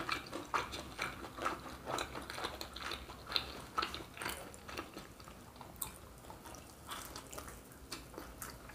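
A person chewing a bite of cheese-stuffed kibe with mouth closed: irregular short clicks and mouth noises, more frequent in the first half and thinning out later.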